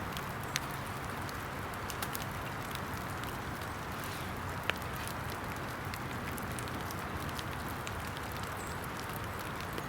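Steady rain hiss in wet woods, with scattered sharp ticks of drops landing nearby.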